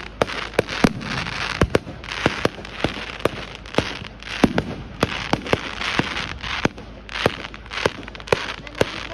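Fireworks going off on Bonfire Night: a quick run of sharp cracks, two or three a second, over a continuous crackling hiss.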